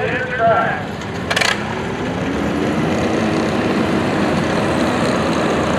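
Antique farm tractor engine rising in revs about two seconds in, then running steady at high revs. A short sharp knock sounds about a second and a half in.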